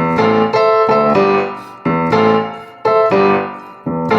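Instrumental backing music on an electric piano or keyboard: chords struck about once a second, each left to ring and fade before the next.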